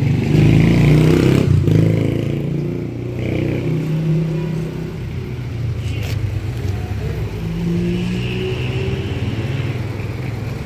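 A motor vehicle engine running close by, its pitch wavering a little, with a couple of brief clicks.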